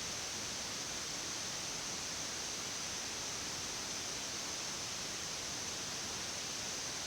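Steady, even hiss of a Boeing 787-10 flight deck in cruise: airflow and air-conditioning noise with no change throughout.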